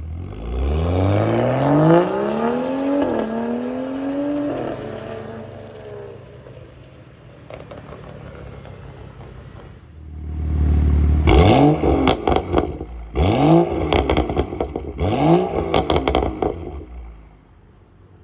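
BMW 435i's turbocharged N55 inline-six through an aftermarket turbo-back valved exhaust, accelerating hard with a rising note and two quick upshifts, then easing off. About ten seconds in it picks up again with three sharp rev blips, each falling away into crackles and pops from the exhaust.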